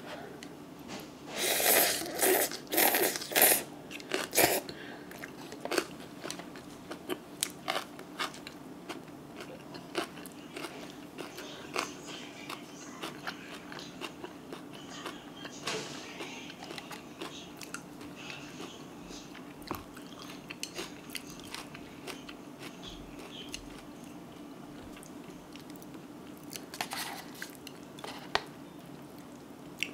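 Close-miked chewing of spicy stir-fried noodles with crunchy mustard-leaf kimchi: a run of loud crunching bites about two to four seconds in, then quieter chewing with scattered small clicks.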